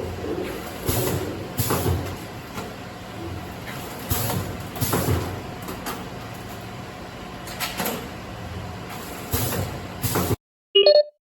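Automatic vertical chip-packing machine running: a steady mechanical hum broken by short hissing whooshes every second or few. It cuts off abruptly near the end and is followed by a brief chime.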